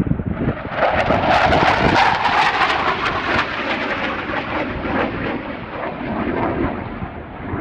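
Panavia Tornado GR4 jet with twin RB199 engines passing close by on approach. A loud jet rumble builds over the first second, peaks, then slowly fades.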